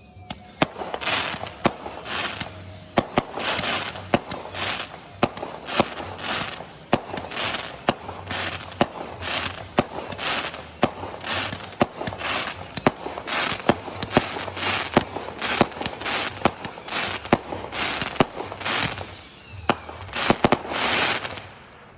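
Rapid barrage of aerial fireworks: sharp bangs about two a second over constant crackling, with repeated high whistles that fall in pitch. The barrage stops abruptly near the end.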